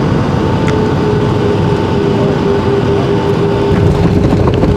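Boeing 757 cabin noise: the steady, loud rumble of the airliner rolling on the ground after landing, with a steady hum over it and a few light clicks.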